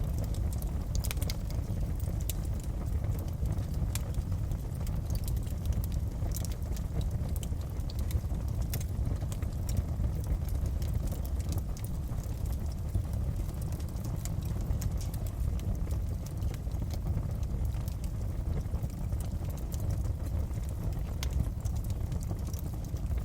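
Wood fire crackling in a fireplace: a steady low rumble of burning with irregular sharp crackles scattered through it.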